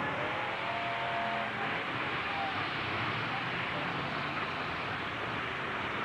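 Engines of demolition-derby pickup trucks running in the arena, a steady dense mechanical noise with no crash impacts.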